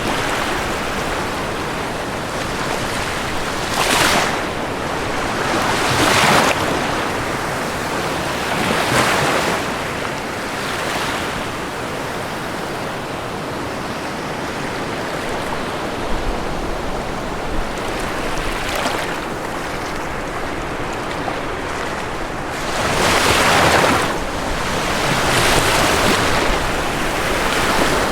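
Ocean waves washing onto a shore: a steady rush of surf that swells as waves break, about seven times, the strongest about 23 seconds in.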